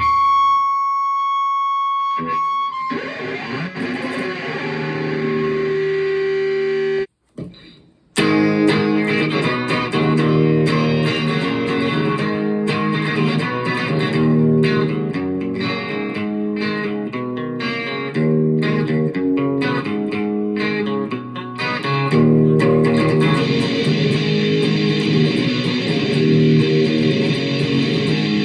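Univox Hi-Flier Phase 4 electric guitar played through an amplifier with some distortion: a held high note at the start, a brief gap about seven seconds in, then a repeating strummed chord riff.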